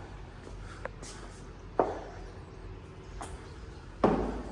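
A few sharp, irregular knocks and taps in a small empty room, the last and loudest near the end, over faint steady room noise.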